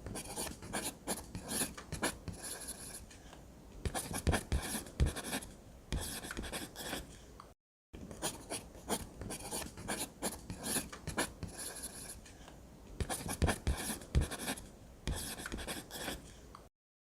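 Drawing strokes on paper: a pen scratching in quick, irregular strokes. The scratching breaks off for two brief silent gaps, one midway and one near the end.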